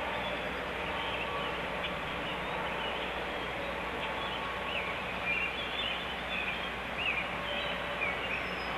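Steady outdoor background noise from a nest-camera microphone, with a low hum and scattered short, high bird chirps every second or so.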